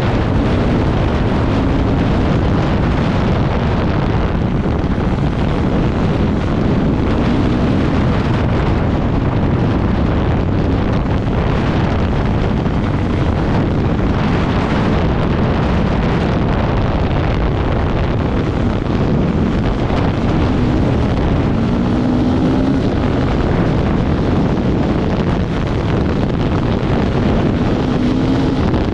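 Off-road vehicle engine running at speed, its faint wavering note under heavy wind rushing over the microphone.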